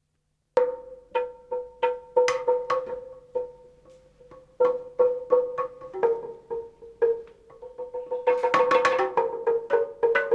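Music on a single plucked or struck instrument: sharp, ringing notes on mostly one pitch at an uneven pace, starting about half a second in, growing faster and adding a second, lower note in the last couple of seconds.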